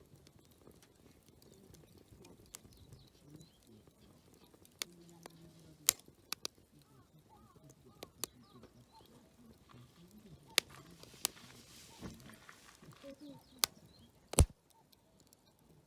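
Wood campfire crackling, with irregular sharp pops, several of them loud. Faint voices murmur in the background.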